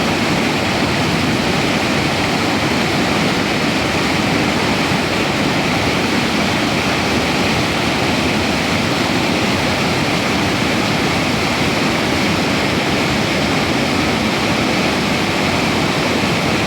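Floodwater rushing over a river weir: a loud, steady roar of falling and churning water.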